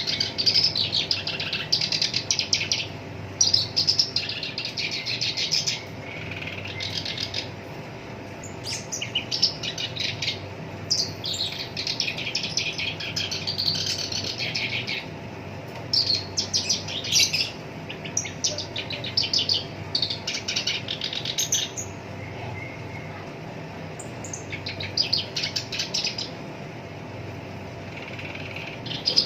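Black-browed reed warbler singing: a run of fast, rough, rattling phrases, each from under a second to about three seconds long, broken by short pauses.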